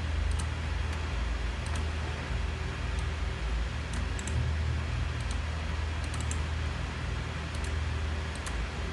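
Scattered light clicks from a computer being operated, irregular and sometimes in quick pairs, over a steady low hum and hiss.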